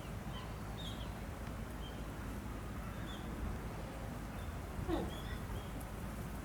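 Outdoor zoo ambience: small birds chirping in short high calls over a steady low rumble. About five seconds in comes a brief, louder call that falls in pitch.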